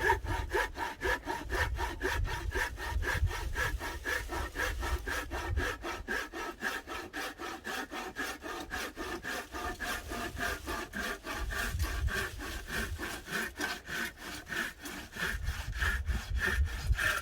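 Hand saw cutting through firewood in steady, even back-and-forth strokes, about four a second, stopping near the end.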